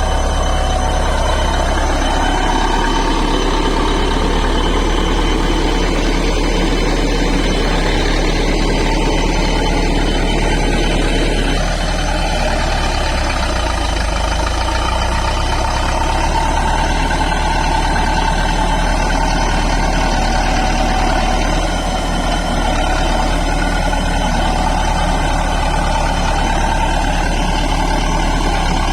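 Heavy diesel engine of a bulldozer running steadily, its sound changing about twelve seconds in.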